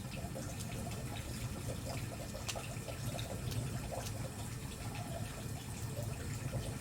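Wood fire burning steadily: a low rush of flame with scattered irregular crackles and small pops from the burning firewood.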